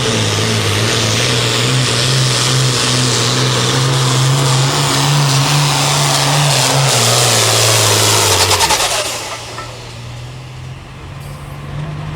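Diesel pulling tractor engine running hard under load, a steady pitched drone with a high hissing whine over it. About nine seconds in the engine note sags and then drops off sharply to a much quieter run, as the throttle comes off.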